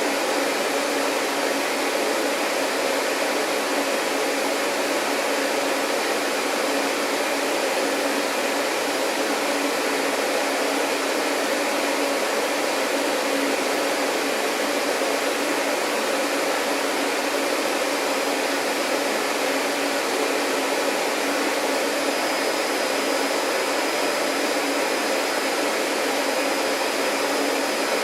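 Vacuum cleaner running steadily: a constant rushing hiss with a low hum underneath. A faint high-pitched whine joins about three-quarters of the way through.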